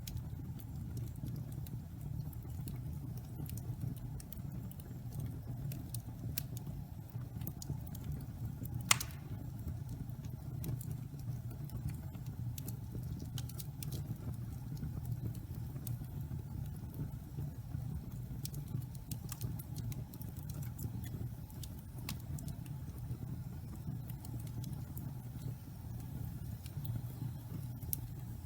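Pine logs burning in a fireplace: a steady low rumble of the flames with scattered small crackles and ticks, and one loud pop about nine seconds in.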